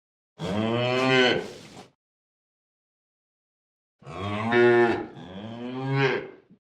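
Domestic cow mooing three times: one moo about half a second in, then two more back to back about four seconds in.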